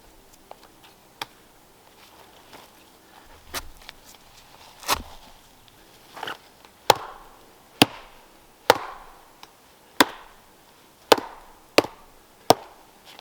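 A hand tool striking wood in repeated single blows: a few light, irregular strikes, then heavier ones about one a second in the second half.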